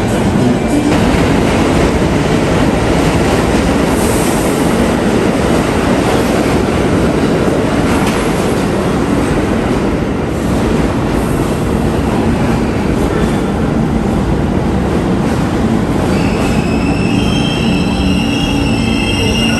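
New York City subway train running through a station: a loud, steady rumble of steel wheels on the rails, joined near the end by a high-pitched wheel squeal.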